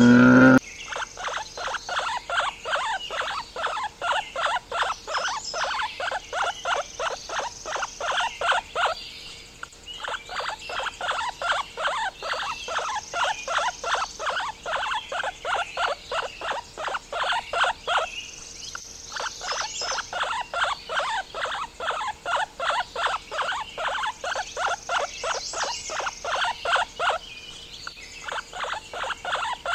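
An animal calling in a fast, even series of short pulses, about three to four a second, in long bouts broken by brief pauses, with fainter high chirping above.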